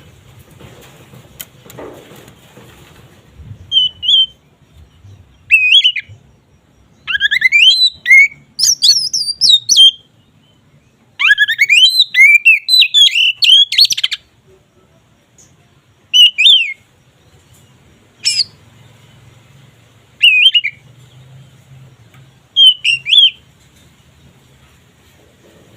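Oriental magpie-robin (kacer) singing in loud, open full song: bursts of rapid, varied whistled phrases with short pauses between them, the longest runs in the middle.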